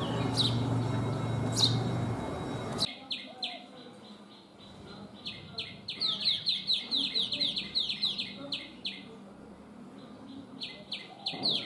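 A bird calling: a few thin down-slurred notes over a noisy background, then, after an abrupt change, quick runs of sharp, high notes repeated several times a second, with a short pause between runs.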